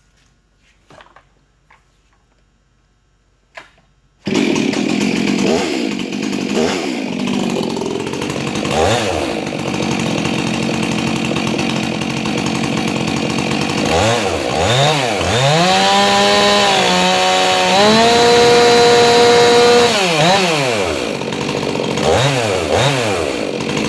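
A Stihl MS 362 two-stroke chainsaw with a ported exhaust starts about four seconds in. It idles with a few quick throttle blips, is held wide open for several seconds turning about 14,000 rpm, then drops back to idle, with more blips near the end.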